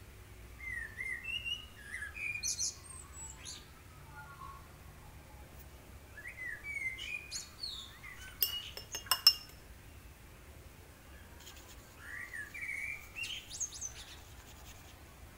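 A songbird singing in three bursts of quick chirps and sliding whistles, with a few sharp clicks, the loudest sounds, in the middle.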